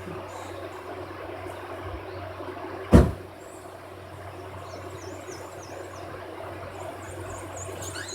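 A single loud thump about three seconds in, over a steady background hum. Faint high chirps come in near the end.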